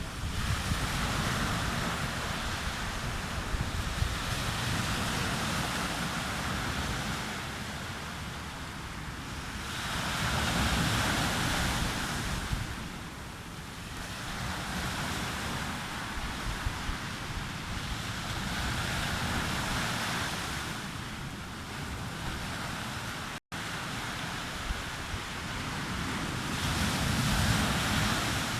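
Sea waves breaking and washing up a beach, the surf swelling and ebbing every eight seconds or so over a constant low rumble.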